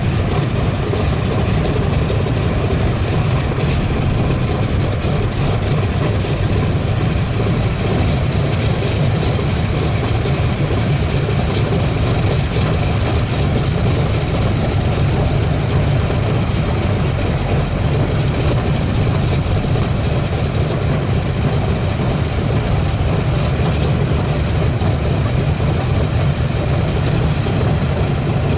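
Pratt & Whitney R-2800 eighteen-cylinder twin-row radial engine of a Republic P-47D Thunderbolt running steadily at low power, a deep, even rumble with no revving.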